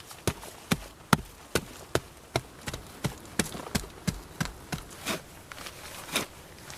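Steady rhythmic knocks, about two or three sharp strikes a second, typical of hand-tool work such as chopping or hammering.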